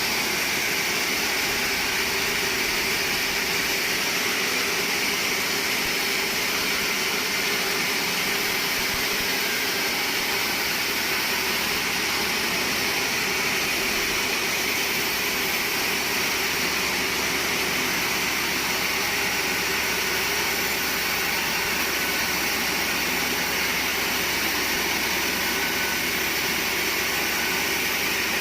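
Steady mechanical drone of sawmill machinery running, holding one level and pitch throughout with no cuts or impacts standing out.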